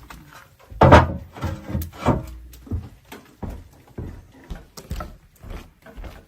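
A run of irregular knocks and clatters, the loudest about a second in and another near two seconds.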